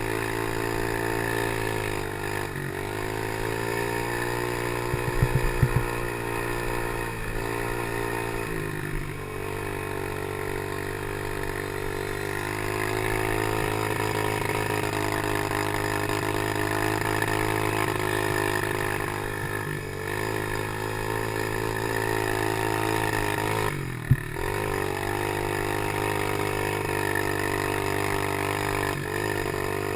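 Engine of a Chinese 90cc PY90 pit bike running under way at steady revs, its pitch dipping briefly and climbing back several times. A few rattling knocks come about five seconds in, and a single sharp knock about three-quarters of the way through.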